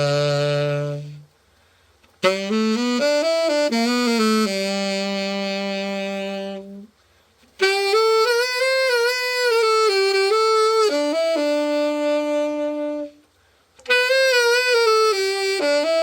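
Selmer Super Action 80 Series III tenor saxophone played solo after a full overhaul. It plays melodic phrases with vibrato on the held notes, broken by three short pauses for breath.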